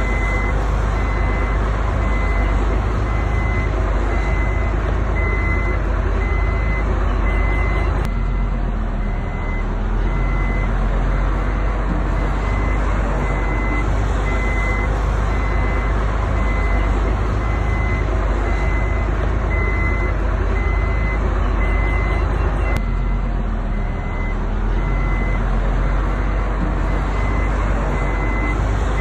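Heavy diesel construction machine running under load, with its reversing alarm beeping at a regular pace over the engine rumble.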